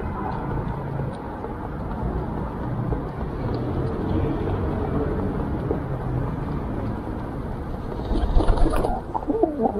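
Steady low rumble of street traffic. A louder, irregular sound rises over it about eight seconds in and lasts about a second and a half.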